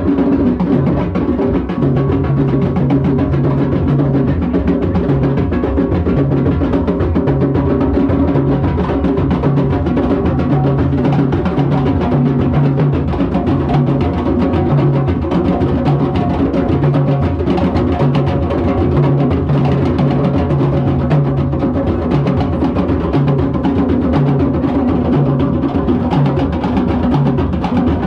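Many hand drums played together in a drum circle: a steady, driving rhythm with a low drum beat repeating evenly underneath.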